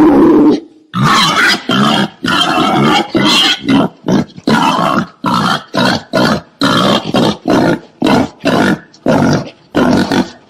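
Wild boar grunting and squealing in short, harsh calls repeated about twice a second: the kind of boar call played to lure wild boar in.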